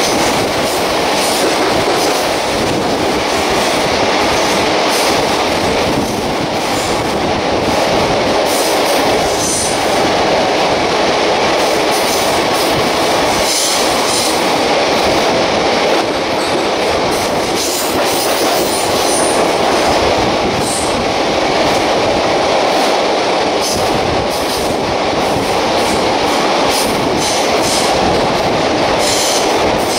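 Express passenger train running through a rock tunnel, heard at an open coach window: a loud, steady rumble of wheels on rail with scattered clicks from the track, while another train's coaches rush past on the next track.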